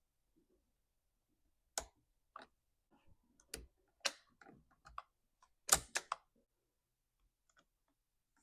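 Chainsaw parts being handled and fitted together during reassembly: a scattered series of sharp clicks and knocks, the loudest about six seconds in.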